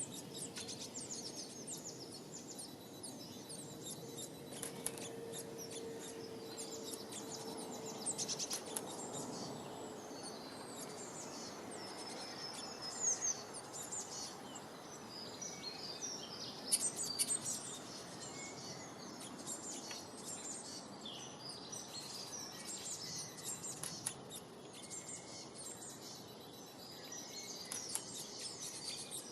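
Birds singing: a continuous mix of quick, high chirps and trills over a steady background hiss.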